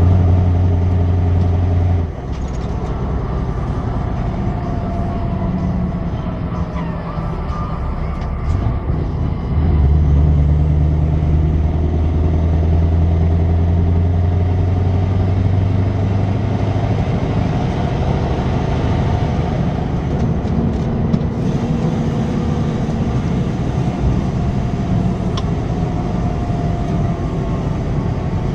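Scania 164 480 truck's V8 diesel running through a straight-through exhaust, with a deep engine note. It pulls loudly for the first two seconds and eases off, pulls hard again from about ten seconds to about seventeen seconds, then settles to a steadier run.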